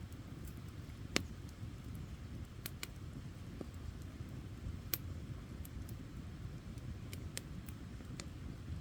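Wood campfire burning: a low, steady rumble of flames with scattered sharp crackles and pops, the loudest about a second in and another near five seconds.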